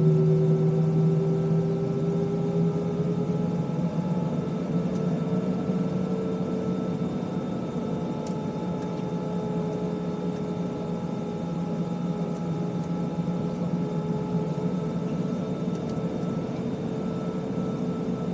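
Airbus A320's jet engines running steadily, heard from inside the passenger cabin: a low hum with several steady whining tones, one of which rises slightly in the first few seconds.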